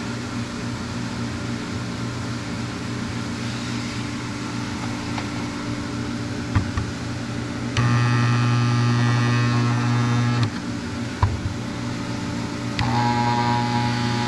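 Magnaflux electromagnetic yoke buzzing with a loud mains hum as it is switched on twice, each time for about two to three seconds, to magnetize a cast-iron cylinder head for crack inspection; the second buzz is still going at the end. A few sharp clicks come before each buzz, over a steady background hum.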